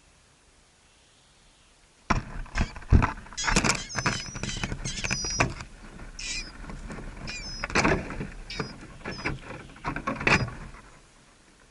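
Small birds giving short, thin, high chirps amid a busy run of close knocks and scrabbling, as birds move about right by the microphone. The sound starts abruptly about two seconds in and dies away near the end.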